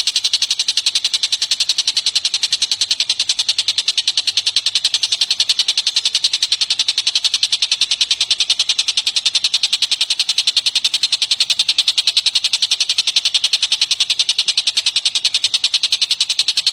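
Bird-training recording of a songbird's rapid, even trill: high chirps repeated many times a second without a break.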